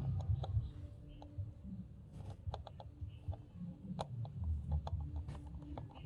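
Scattered small clicks and taps of small parts being handled during a model build, over low handling rumble.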